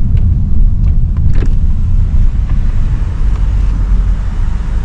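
Ford Mustang driving, heard from inside the cabin: a steady low engine and road rumble.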